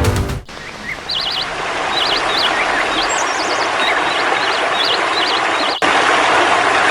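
Rainforest ambience: birds giving short, repeated wavering chirps over a steady hiss, after a music passage that ends in the first half-second.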